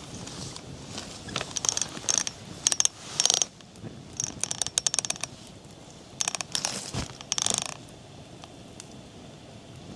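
Several short bursts of rapid mechanical clicking from something small being worked by hand, with a dull knock about seven seconds in.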